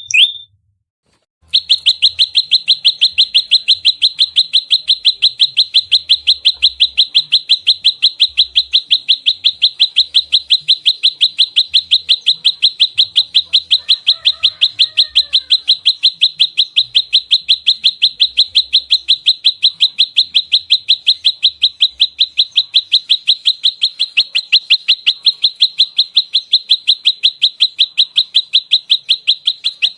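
Prenjak lumut (a small prinia-type warbler) giving its rapid fighting call, a fast, unbroken run of sharp, high chirps at about four a second. The call stops briefly near the start and then resumes.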